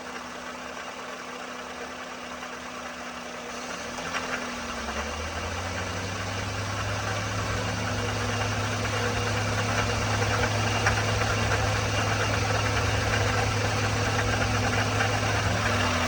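Toyota 1ZZ-FE 1.8-litre four-cylinder engine idling at operating temperature with the noise/rattle the owner is chasing. About four seconds in the idle dips briefly, a deeper hum joins and the engine sound grows louder, lasting until near the end.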